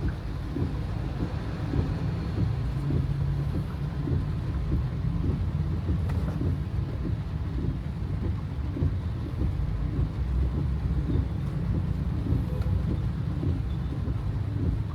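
A car driving in heavy rain, heard from inside the cabin: a steady low rumble of engine and road, with rain hitting the car.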